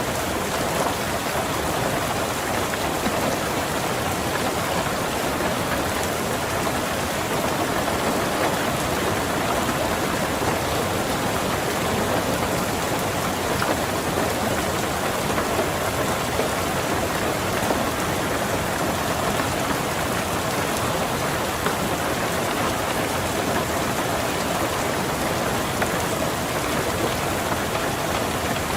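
Steady heavy rain falling on a car's roof and windows, an even dense patter of drops.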